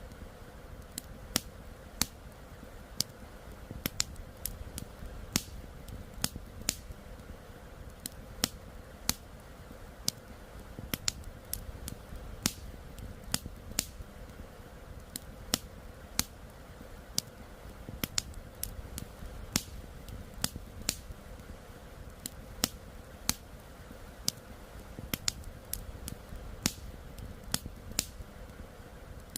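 Wood fire crackling, with sharp, irregular pops about one or two a second, over a steady rush of flowing river water.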